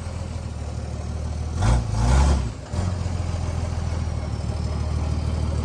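Tow truck engine running at idle with a steady low hum, briefly rising in pitch about two seconds in.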